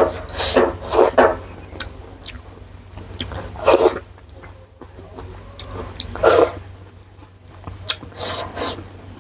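Close-miked eating sounds: mouthfuls chewed and slurped in about five short, wet bursts, with a steady low hum underneath.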